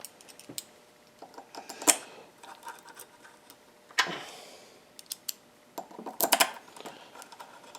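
Machined metal parts clinking and knocking together as they are handled and fitted: a string of separate sharp clicks, one with a short ring about four seconds in, and a quick rattle of several clinks near the end.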